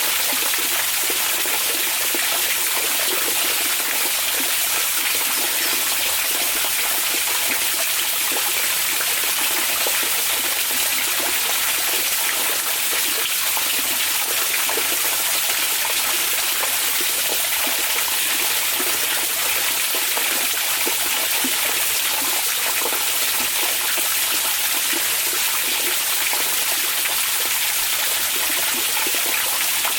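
Onsen hot spring water running in a steady, even rush with a fine trickling texture, used as relaxing green noise.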